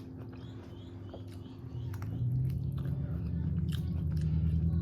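Close chewing and biting into food, with small wet clicks and smacks. From about two seconds in, a low hummed tone rises under the chewing and grows louder.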